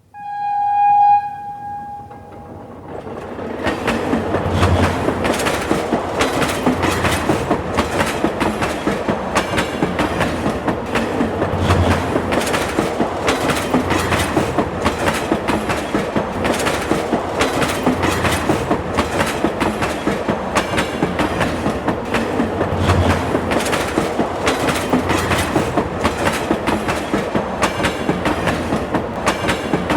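A train horn sounds one high note lasting about two seconds. Then a train rolls along with a steady, rhythmic clickety-clack of wheels over rail joints.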